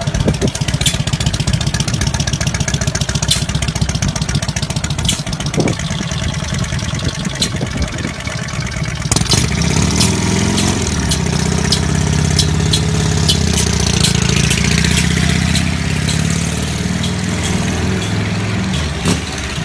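An engine running at idle with rapid, even firing pulses and a few clicks; about halfway through it changes to a smoother, steadier tone, with a brief pitch wobble and a falling high whine.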